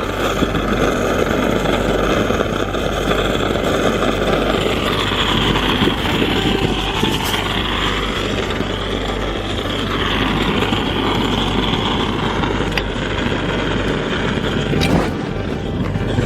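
Strong wind buffeting the microphone: a loud, steady rumbling roar with no pauses.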